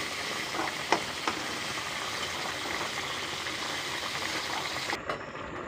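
Green peas frying in hot oil in a metal kadhai: a steady sizzle and crackle, with a few sharp clicks in the first second and a half as a metal spoon scoops them out. The sizzle turns duller and a little quieter about five seconds in.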